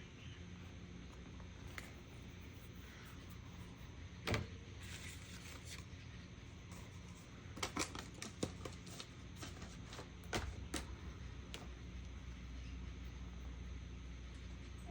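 Scattered light taps and clicks of art supplies and paper being handled on a craft table, a handful close together in the middle, over a low steady hum.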